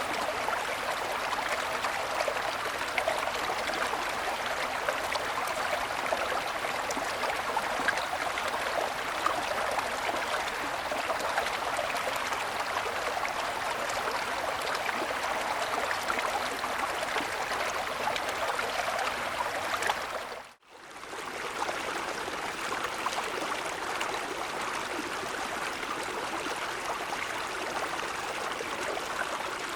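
Mountain stream flowing over snow-covered stones: a steady babble of running water. About twenty seconds in it fades out for a moment and comes back slightly softer.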